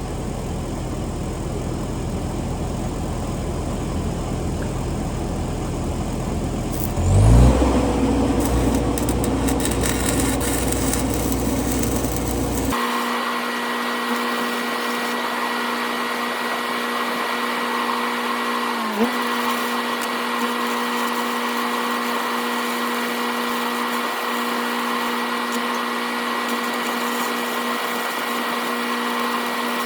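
An engine idles steadily at first. About seven seconds in, a power tool, most likely an angle grinder, spins up with a rising whine. It then runs at a steady pitch, dragging down briefly once as it bites into the work.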